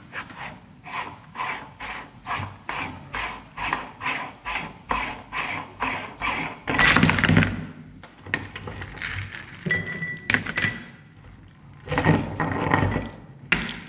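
Meat grinder crushing crisp, brittle papadum wafers: a rhythmic crackling crunch about two and a half times a second, with a louder, denser burst of crunching just past the middle and again near the end.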